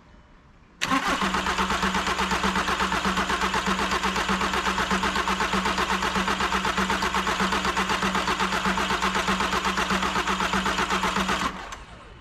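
VW T5 Transporter five-cylinder diesel turned over on the starter motor for about ten seconds, pulsing evenly, then released. The engine does not fire: diesel has not yet reached the injectors after the rebuild, and the owner thinks the fuel system has lost its prime.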